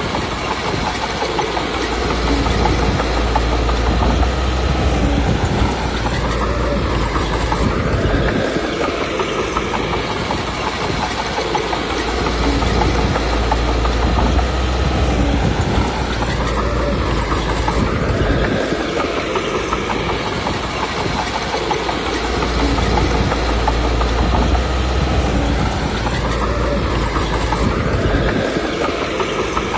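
Komatsu D21P crawler bulldozer working: its diesel engine runs under load with clattering steel tracks. A heavier low rumble swells and eases in repeated cycles about every ten seconds, with the engine note rising and falling between them.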